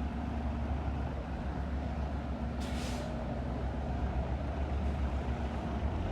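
A city bus's diesel engine running with a steady low rumble, and a short hiss of its air brakes a little under three seconds in.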